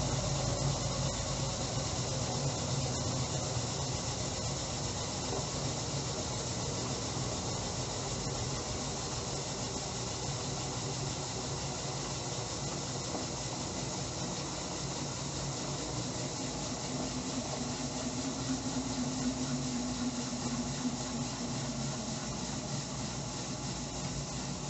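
Electrolux LTE09 top-loading washing machine running mid-cycle before its rinse fill: a steady motor hum under a steady hiss.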